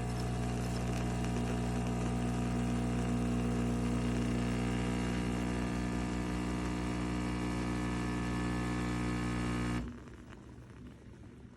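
De'Longhi Magnifica Start espresso machine running with a steady hum, cutting off suddenly near the end.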